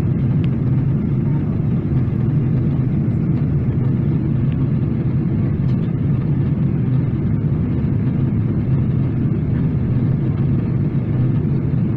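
Steady low rumble of airliner cabin noise inside a Boeing 777-300ER: engine and airflow noise, with no change in level.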